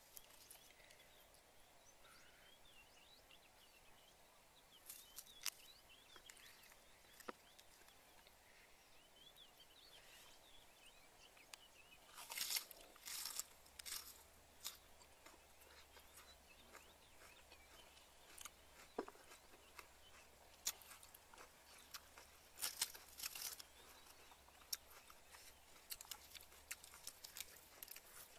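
Close-up chewing and biting into crisp lettuce wraps: scattered clusters of crunches, loudest a little under halfway through and again around three-quarters of the way through, between stretches of near quiet.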